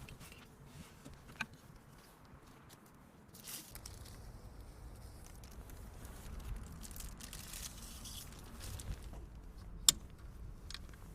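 Handling sounds: low rustling and rumble with a few scattered clicks, and one sharp click near the end.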